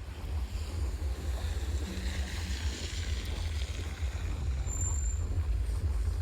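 Wind buffeting the microphone: a loud, uneven low rumble that starts suddenly, with a fainter hiss swelling and fading in the middle.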